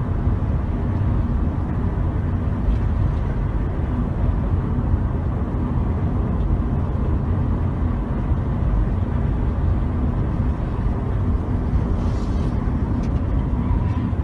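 Steady low rumble of a car driving: road and engine noise with no distinct events.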